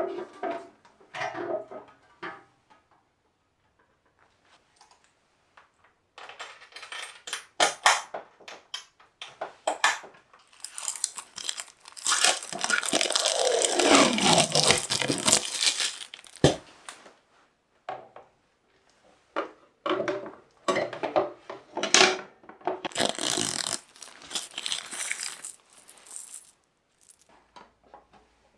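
Small metal parts clinking and scraping as they are handled, with a falling whir a little past halfway and a sharp knock soon after.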